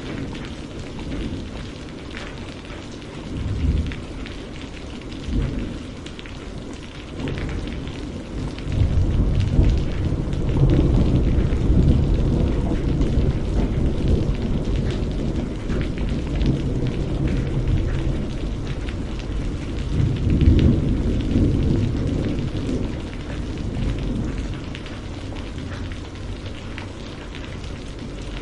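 Steady rain with rolling thunder: a constant rain hiss, with a low rumble that builds about a quarter of the way in, surges again about two-thirds through, then fades.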